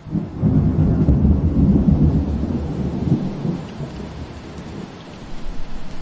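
Steady rain hiss with a low rumble of thunder that swells at the start, is loudest for a couple of seconds and fades away over about four seconds.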